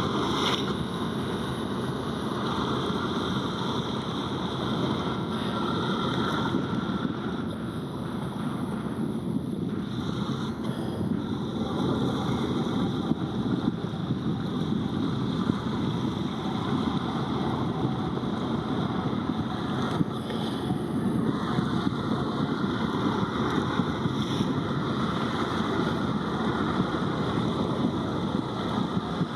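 Steady outdoor wind noise buffeting the microphone, a dense rushing rumble with no distinct events.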